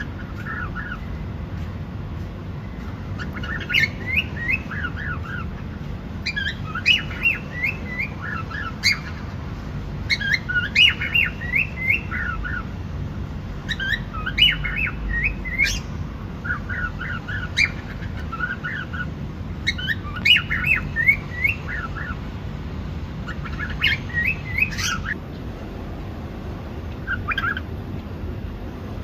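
Cockatiel chirping in repeated bursts of quick, falling chirp notes, a burst every two to three seconds, over a steady low background rumble.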